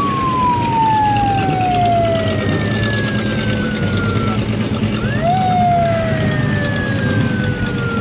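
Several emergency-vehicle sirens wailing at once, each rising quickly and then sliding slowly down over a few seconds, at different pitches, over a steady low engine rumble.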